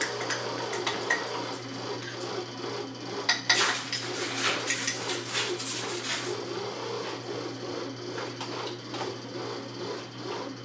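Kitchen utensils clinking and scraping against dishes and pots, busiest about a third of the way in, over a steady low hum.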